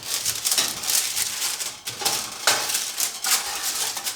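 A spatula scraping and clicking against a metal baking pan as black bean burger patties are flipped over, with a busy run of small scrapes and knocks.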